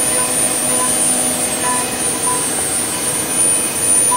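CNC wood lathe's router spindle running with a steady high whine as a 6 mm ball-nose cutter makes the finishing pass on the turning wood.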